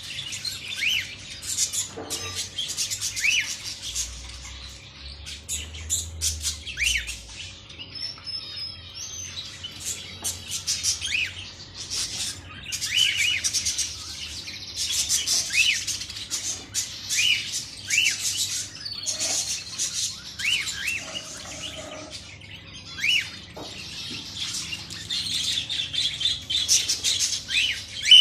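Lovebirds and cockatiels chirping and chattering together: a busy, overlapping stream of high chirps with short arching whistle calls repeated every second or so.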